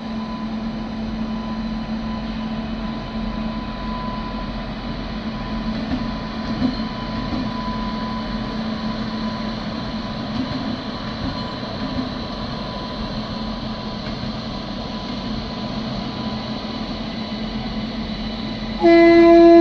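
An electric-hauled Indian Railways express with LHB coaches running past on the tracks: a steady rumble of wheels on rail with a low hum. Near the end a loud train horn starts sounding, one held note.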